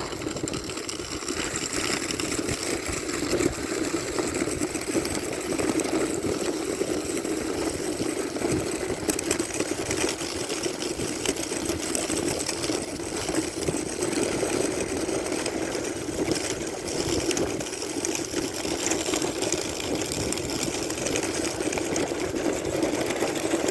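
Wooden sika sled sliding downhill over snow: a steady scraping rush from the runners, with many small knocks as it rides over bumps.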